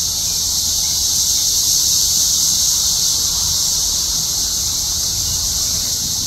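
Cicadas singing en masse in the trees: a dense chorus that makes a steady, high-pitched drone, almost constant.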